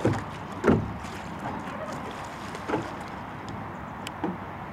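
A few irregular water splashes over a steady rush of water and wind noise, the loudest about a second in: kayak paddle strokes.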